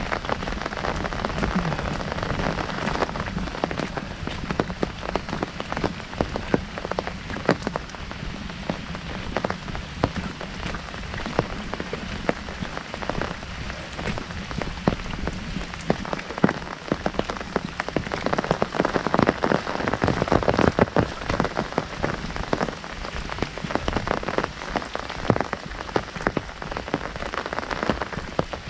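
Heavy rain drumming on an umbrella overhead, a dense patter of sharp drop strikes on the canopy over the hiss of rain falling around. The drumming grows heavier for a few seconds past the middle.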